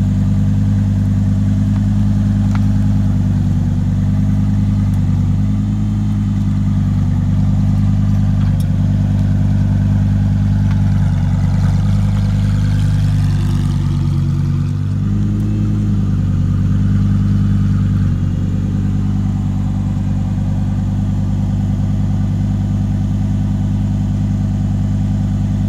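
Lamborghini Huracán Performante's naturally aspirated V10 idling steadily, heard close to its rear exhausts; the idle wavers slightly about halfway through, then settles.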